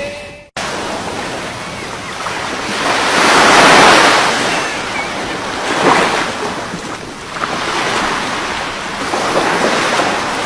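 Sea waves washing, with wind buffeting the microphone, in swells that rise and fall; the loudest surge comes about four seconds in.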